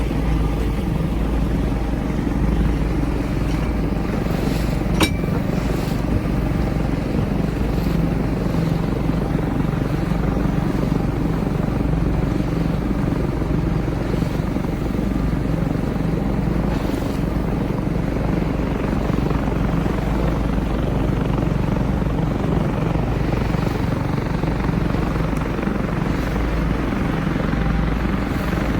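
Small boat's motor running steadily under way, a low, even engine rumble. A single sharp click about five seconds in.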